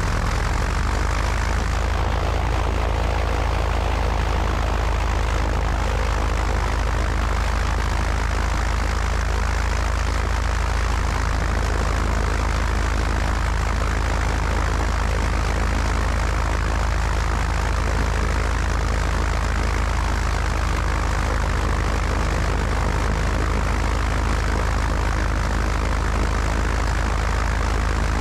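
Cessna 172's piston engine and propeller running steadily, heard from the wing with wind rushing over the microphone.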